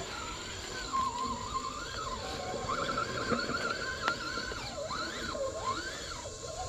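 Electric motor and gearbox whine of a 6x6 RC crawler truck (Traxxas TRX-6), rising and falling in pitch as the throttle is worked while crawling over rocks.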